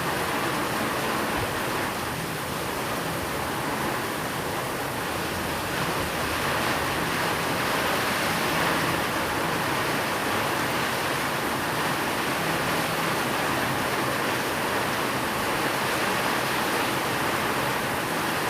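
Steady heavy rain, an even hiss with no thunder claps or drops standing out.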